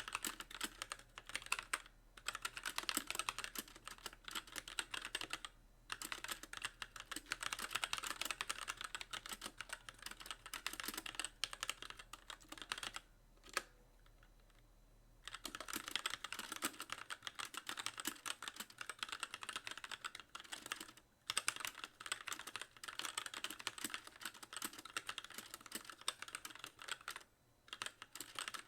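Fast typing on a mechanical keyboard with light linear Gateron Clear switches and stock keycaps, the keys bottoming out on every press. The clicks come in quick runs with brief pauses, and typing stops for about two seconds near the middle apart from a single keystroke.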